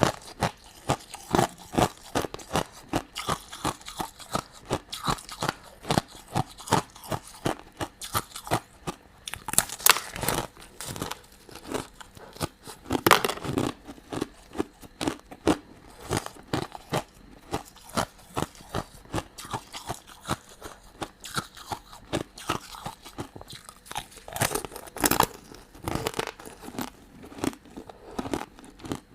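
Close-miked chewing of crunchy sugar-crusted candy: rapid crisp crunches, two or three a second, with a few louder bites about ten seconds in, about thirteen seconds in and near the end.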